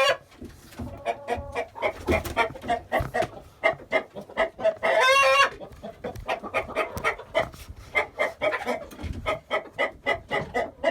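A flock of chickens clucking rapidly and continuously, with one louder drawn-out call about five seconds in.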